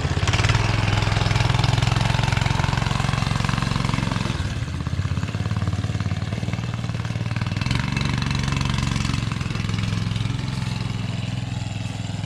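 Small single-cylinder go-kart engine running under throttle, easing off a little about four seconds in and picking up again.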